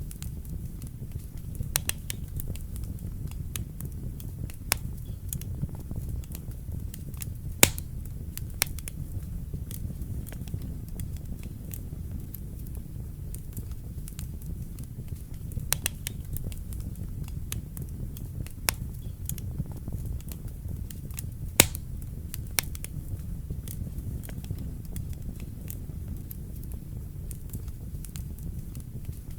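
Wood fire crackling in a fireplace: irregular sharp pops and snaps over a steady low rumble of the flames, with two louder pops about a quarter of the way in and about three-quarters through.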